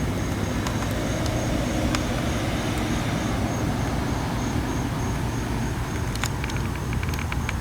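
Steady low rumble of road traffic in the rain, with scattered faint ticks and a quick run of ticks near the end.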